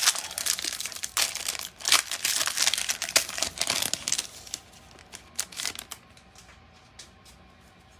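A baseball card pack's foil wrapper crinkling and tearing as it is ripped open. The crinkling is dense for about four seconds, then thins to a few light rustles and clicks.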